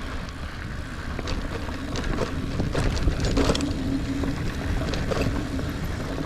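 A Niner Air 9 RDO 29er mountain bike rolling along a dirt singletrack trail: tires rumbling over the ground, with scattered clicks and rattles from the bike over bumps, and wind on the microphone.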